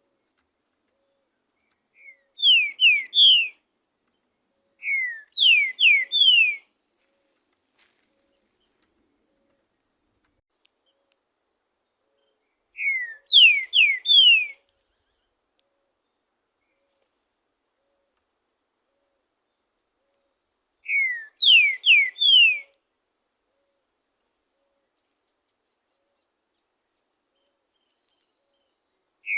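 Green-winged saltator (trinca-ferro) singing: four short phrases of three or four clear, falling whistles each, spaced several seconds apart with silence between.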